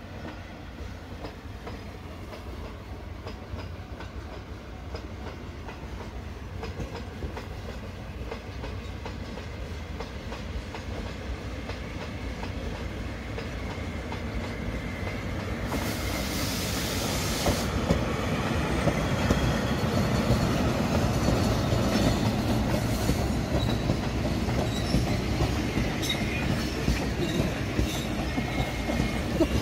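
Iwate Kaihatsu Railway diesel locomotive hauling a long train of loaded hopper wagons, growing steadily louder as it approaches, wheels clacking over rail joints. A burst of hiss lasts about two seconds around the middle, and brief wheel squeals come near the end.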